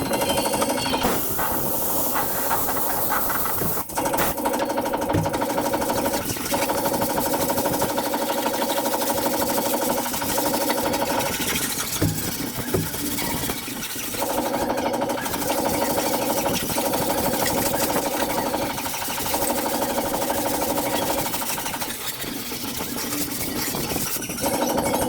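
A power tool running on steel car-body sheet metal, nearly continuous with a few short dips, steady whine tones over a harsh hiss.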